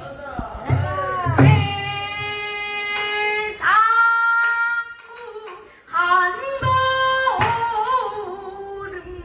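A child singing pansori, Korean traditional narrative song, in long held notes with wide vibrato and bending, sliding pitch, broken by a few short pauses for breath.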